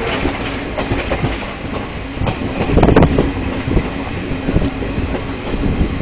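Train running on the rails, heard from on board: a steady rumble with irregular wheel clatter and knocks, loudest about three seconds in.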